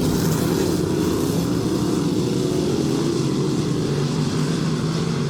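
Dirt-track race cars running laps around the oval, their engines blending into one steady, loud sound with no single car standing out.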